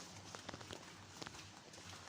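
Faint footsteps of someone walking, a few soft irregular steps over a low background hiss.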